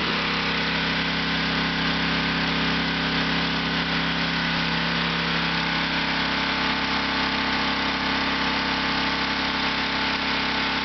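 Pressure washer's small gas engine running steadily, with an even hiss over it.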